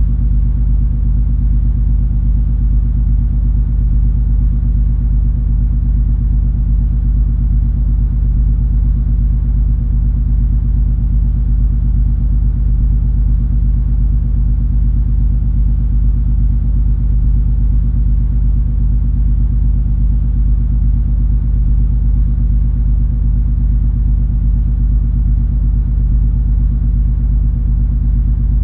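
Steady low rumble and hum of the MS Color Fantasy cruise ferry's engines while under way: a deep, unchanging drone with several steady low tones over it.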